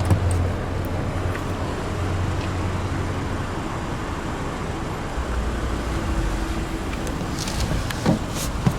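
Steady low hum of the Lexus NX 200t's 2.0-litre turbocharged four-cylinder running at idle, with a few short clicks and a knock near the end.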